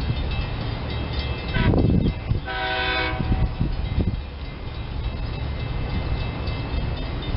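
SEPTA Silverliner electric commuter train running past with a steady low rumble, and its horn sounding one short blast about two and a half seconds in.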